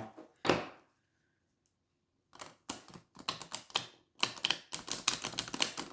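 Tarot cards being shuffled by hand: a run of quick, irregular papery clicks and slaps that starts about two seconds in and grows busier toward the end.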